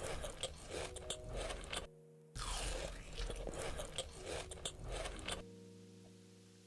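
Crunchy food being bitten and chewed in two stretches of a few seconds each, full of sharp crackling crunches, with soft background music underneath; the chewing stops about five seconds in, leaving only the music.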